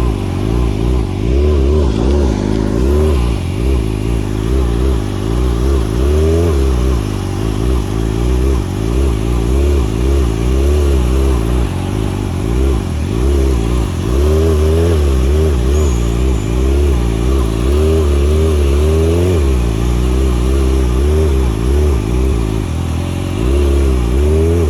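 Large motorcycle engines running, their pitch rising and falling over and over as the throttle is blipped and eased.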